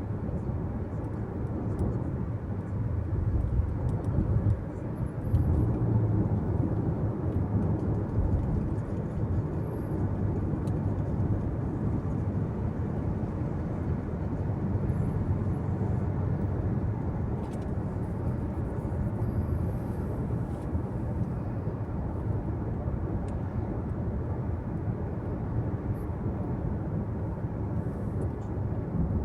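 Steady road and tyre noise heard inside a moving car's cabin, a low even rumble with a few louder swells about four to six seconds in.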